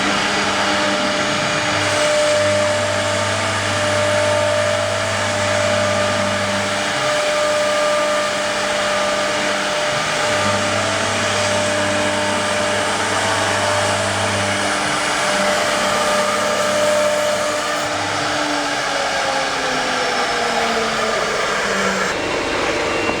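Air-cooled spindle of a large CNC wood router running and milling a wooden door panel: a steady whine over a hiss of cutting. A lower hum of the axis drives comes and goes for a few seconds at a time as the gantry moves, and near the end one tone slowly sinks in pitch.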